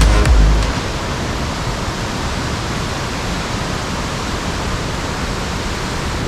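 Waterfall cascades rushing: a steady, even roar of falling water. Background music with a heavy beat ends under a second in.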